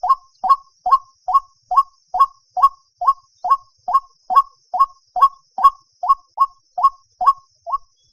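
White-breasted waterhen calling: a long, monotonous series of short, clipped notes, about two to three a second, which breaks off near the end.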